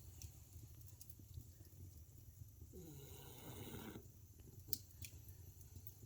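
French bulldog snoring faintly: one drawn-out snore about three seconds in, falling in pitch, over a low steady hum. A sharp click comes near the end.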